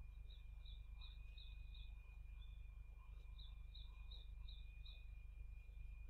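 Faint high chirps from a small bird, two quick runs of about five notes each with a pause between. Under them runs a steady thin whine and a low hum.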